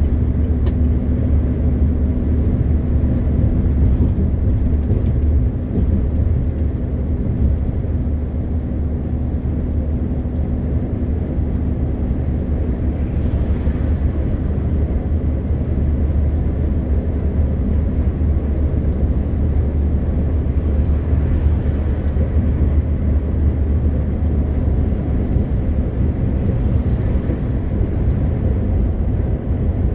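MAN TGX 520 truck's 12.4-litre straight-six diesel engine and road noise while driving, a steady low drone with no change in pace.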